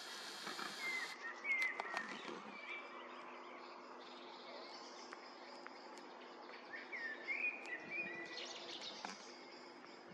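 Rural ambience with birds chirping in short, gliding calls, a few about a second in and more about seven seconds in, over a faint steady low hum.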